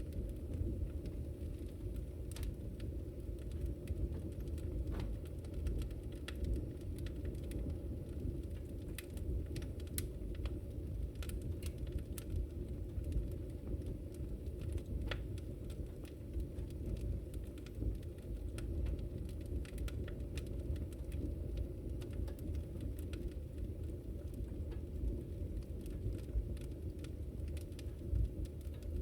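Wood fire burning in a fireplace: a steady low rumble of flames with frequent scattered crackles and pops.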